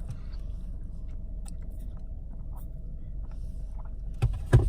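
Close-up chewing and mouth sounds of someone eating chicken minis, small wet clicks over a steady low hum, with two louder knocks near the end.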